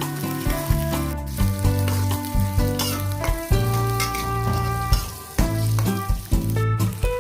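Food sizzling as it fries in a pan, with some stirring, under background music with a steady bass line.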